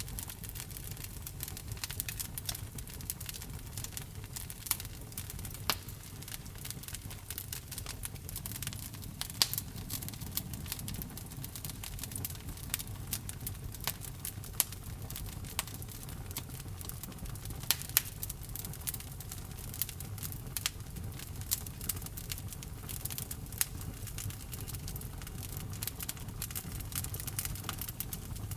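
Wood fire burning in a fireplace: logs crackling, with frequent sharp pops at irregular intervals over a low, steady rumble of the flames.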